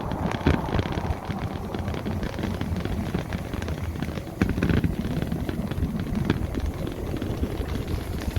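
Wind buffeting the microphone of a rider on a moving electric motorbike: an irregular low rumble, with a few short knocks scattered through it.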